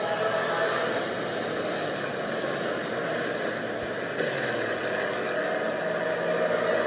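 Propeller airplane engine running steadily under rushing wind, its pitch bending about four seconds in.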